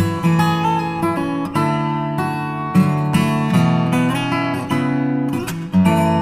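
Background music: acoustic guitar strummed and plucked in a steady run of chords.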